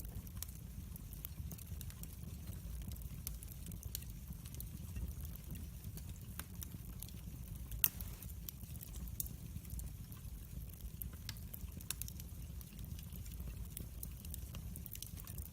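Wood fire in a fireplace crackling: frequent small sharp pops and snaps over a low steady rumble, with one louder pop about eight seconds in.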